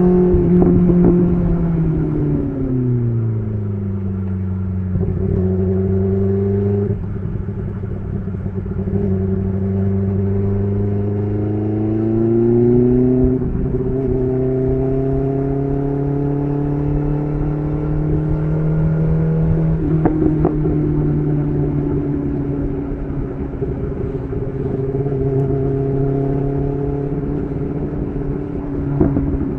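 BMW S1000RR's inline-four engine through an SC Project titanium exhaust, heard while riding. The revs fall away about two to four seconds in, hold low, climb again near the middle, then settle to a steady pull.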